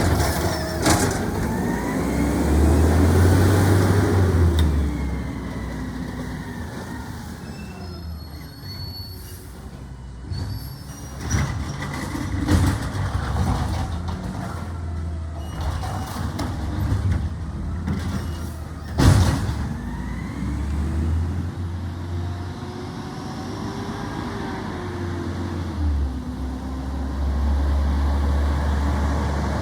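Garbage truck running, its engine revving up and falling back twice, with a few sharp metallic bangs, the loudest about two-thirds of the way through.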